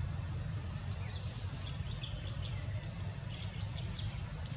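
Outdoor ambience: a steady low rumble with small birds chirping in short, high notes through it, most of them in the middle of the stretch.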